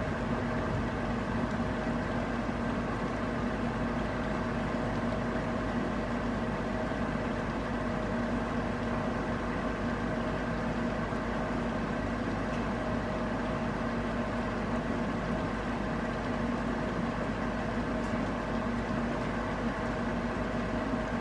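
Steady rain with a constant hum beneath it.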